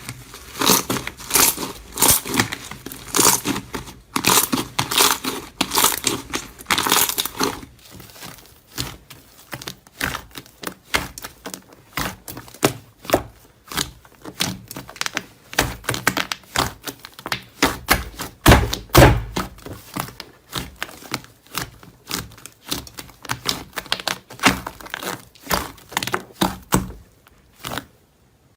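Crunchy material being crushed: dense crinkling and crumpling for the first seven seconds or so, then a run of sharp, irregular crackles and clicks, with one heavier thunk about 19 seconds in.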